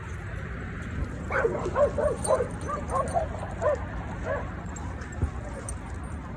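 A dog yipping and whining in a quick run of short, high, rising-and-falling calls, starting about a second in and lasting some three seconds; the owner answers with reassurance, so the dog is upset.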